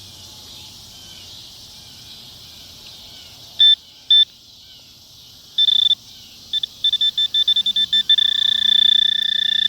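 Metal detector beeping over a buried target: two short beeps, then a longer one, then quicker and quicker beeps that merge into a steady tone near the end, as the coil closes in on the coin.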